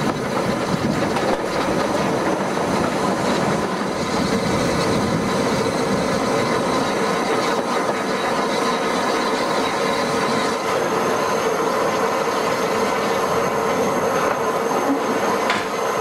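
Steam-hauled heritage train running along the line, heard from an open carriage window: a steady rumble of coach wheels on the rails with faint clicks over rail joints and a thin, steady wheel squeal.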